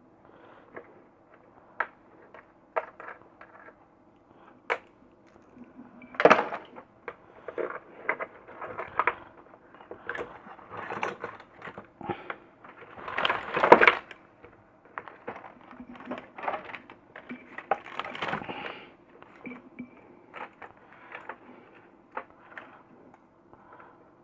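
Irregular clicks, taps and short scraping noises of hands handling a multimeter and its test probes over an opened LED panel light, loudest about six seconds in and around fourteen seconds in, over a faint steady hum.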